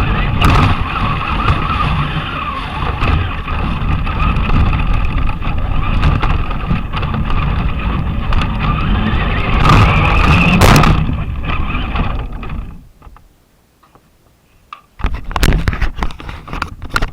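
Traxxas Slash RC car driving, its electric motor whining steadily over rough rattling from the wheels and suspension. The whine swells about ten seconds in, then the sound drops away for about two seconds before rough scraping and rattling starts again.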